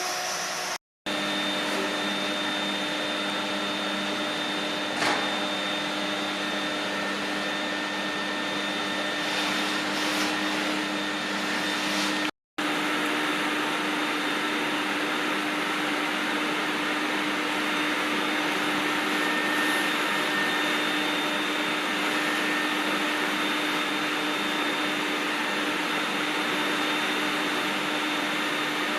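Steady whine and air rush of an electric motor running without a break, cut off twice for a moment.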